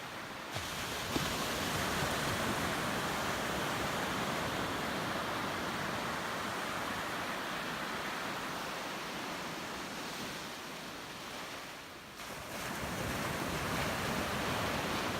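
Ocean surf washing ashore, a steady rush of noise that surges early on, slowly eases, dips about twelve seconds in and swells again as the next wave comes in.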